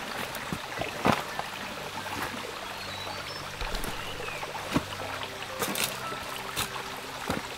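Stream water trickling and running over rocks, with a few sharp knocks, the loudest about a second in and near the end.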